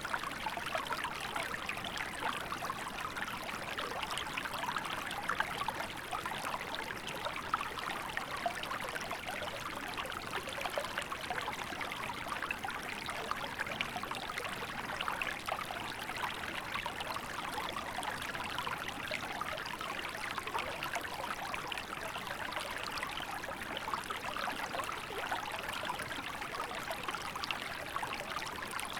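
Small river flowing and trickling, a steady splashing babble.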